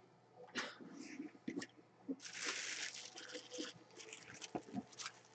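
Plastic and cardboard packaging of a trading-card box being opened and handled by hand: scattered clicks and crackles, with a longer crinkling stretch about two seconds in.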